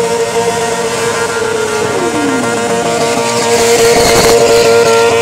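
Several motorcycle engines held at high revs during a burnout, their spinning rear tyres adding a hiss. One engine's pitch falls away about two seconds in. The tyre noise swells a little past the middle.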